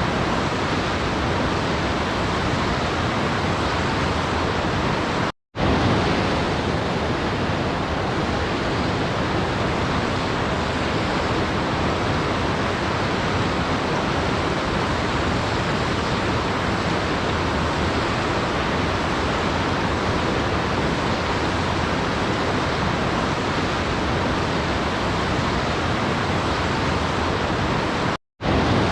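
Waterfall rushing as a steady, even wash of water noise, cutting out to silence for a split second twice, about five seconds in and near the end.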